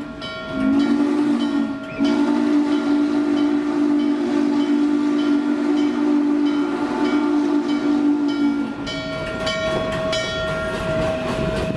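Steam locomotive chime whistle sounding a short blast and then a long one held about seven seconds, followed by the noise of the moving train.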